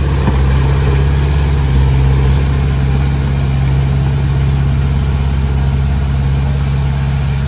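Diesel engine of a Komatsu D20P bulldozer running steadily at an even speed.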